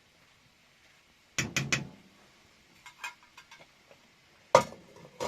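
Knocks and clatter of household objects being handled: a quick run of three sharp clacks about a second and a half in, a few light ticks, then one loud sharp knock near the end.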